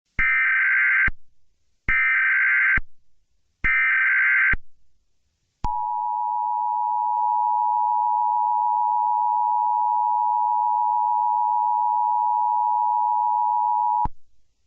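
Emergency Alert System alert tones. First come three short bursts of SAME header data, a harsh digital warble, about a second apart. Then the EAS two-tone attention signal (853 and 960 Hz together) sounds as a steady dual tone for about eight seconds and cuts off sharply. This marks the start of an emergency alert broadcast.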